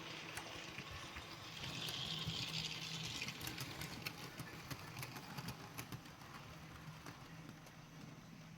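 An OO gauge model locomotive hauling four kit-built four-wheel coaches runs along the track. A steady motor hum and wheel rumble grow louder as the train passes, between about one and a half and three and a half seconds in, then fade away, with scattered light clicks from the wheels going over the rail joints.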